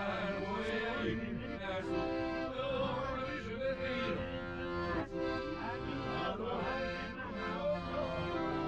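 Accordion music playing, with sustained chords that change every second or so.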